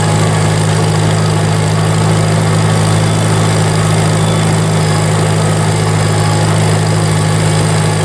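1952 Farmall Cub's four-cylinder engine running steadily at a low, even speed, with no revving.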